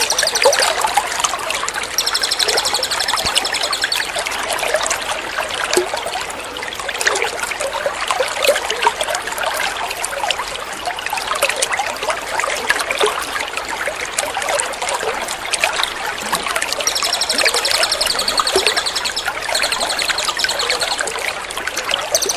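Steady trickling, splashing water with a small songbird's rapid, high-pitched trill laid over it: the trill comes in about two seconds in and again in several bursts near the end. A looped bird-song tutoring track with a water-therapy sound.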